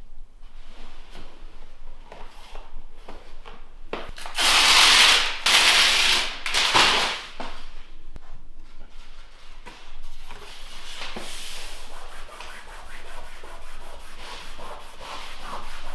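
Faux-wood floor planks scraping and rubbing as they are slid into place during installation. There is a loud stretch of scraping about four to seven seconds in, then lighter, quicker scrapes and ticks.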